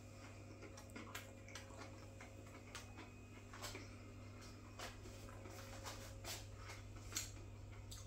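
Chewing a crispy beer-battered cod nugget: faint, irregular crunches and mouth clicks over a steady low hum.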